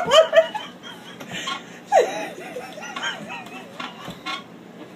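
A woman laughing, with one long wavering laugh starting about two seconds in.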